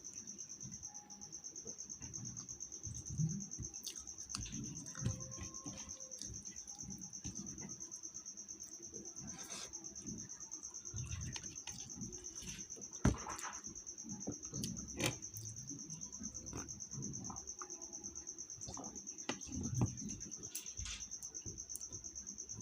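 Crickets trilling steadily in the background, with scattered knocks and clinks from cooking work; the sharpest click comes about halfway through.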